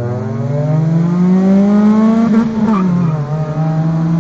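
A car's four-cylinder engine under hard acceleration, heard from inside the cabin: its pitch climbs steadily for about two and a half seconds, drops sharply about three seconds in at an upshift, then holds steady in the next gear.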